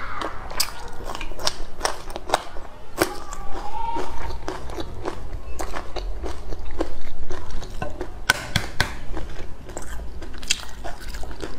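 Close-miked crunching and chewing of a whole raw red chili pepper, with crisp crunches several times a second. Near the end comes the sound of an egg's shell being cracked and peeled by hand.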